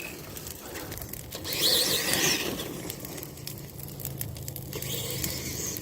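Electric motors of a Tamiya TXT-2 RC monster truck running as it crawls over rough ground. There is a faint steady low hum, a higher whine about two seconds in, and scattered clicks and scrapes from the tyres and chassis.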